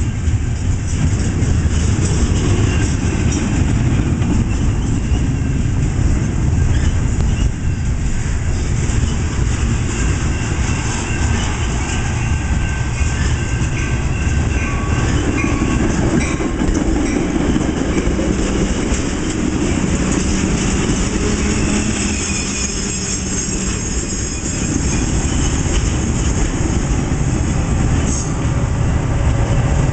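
BNSF intermodal freight train of double-stack container cars and trailer flatcars rolling steadily past, with loud continuous wheel-on-rail rumble, rhythmic clickety-clack and thin high wheel squeals. Near the end a Metra bilevel commuter train passes close by on the near track.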